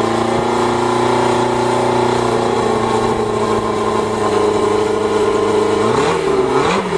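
Motorcycle engine of a home-built dune buggy running cold after a boosted start: a steady idle, then revved up and down twice near the end.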